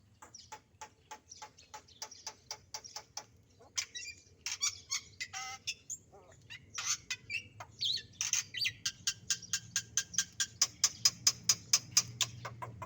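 A songbird calling in a long series of short, sharp chirps, about four a second at first, with a stretch of varied warbling notes around the middle, then faster and louder chirps toward the end.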